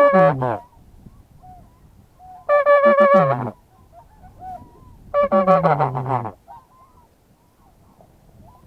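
Mouth-blown duck call sounding three runs of quick quacks, a second or so each, every run ending in a sharp drop in pitch.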